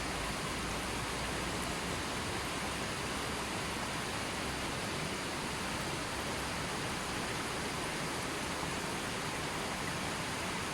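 Steady, even rushing of water, unbroken and unchanging, with no birds, music or other events over it.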